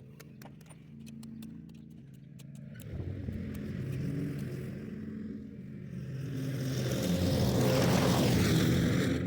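Tractor engine running with light ticks for the first few seconds. About three seconds in it gets louder and works harder, with a gritty noise that builds to its loudest near the end.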